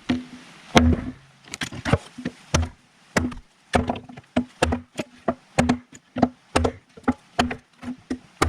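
CRKT Kangee T-Hawk tomahawk chopping into wood, with sharp strikes at about two a second and a short low ring after many of them.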